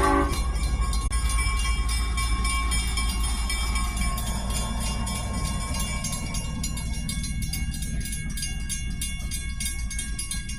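A train horn blast cuts off just as the sound begins, then the train runs on with a low, steady rumble and faint rattling that slowly fades.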